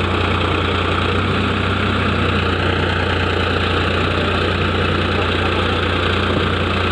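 Tractor engine running steadily with a deep, even hum and no change in speed.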